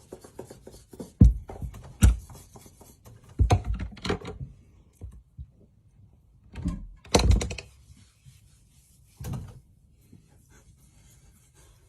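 A string of irregular knocks and thumps, about seven in all, spaced a second or so apart, with quieter handling noise between them.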